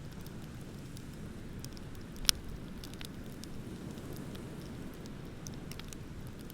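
Beach bonfire crackling, with scattered sharp pops and one loud pop a little over two seconds in, over a steady low rumble of ocean surf.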